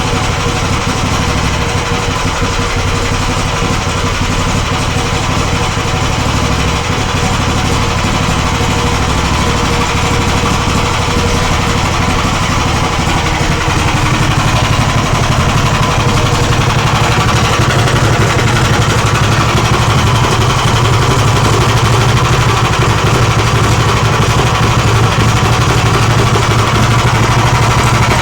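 Magnum BS190F 15 hp single-cylinder four-stroke petrol engine, a Lifan 190F copy, running steadily during its break-in run, growing a little louder and heavier in the low end about halfway through.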